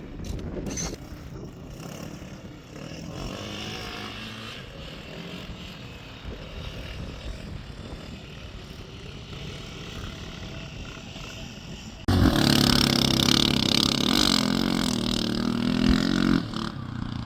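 Off-road motorcycle engines running. About twelve seconds in, a much louder motorcycle engine starts suddenly, close by, its pitch wavering up and down for about four seconds before it drops away.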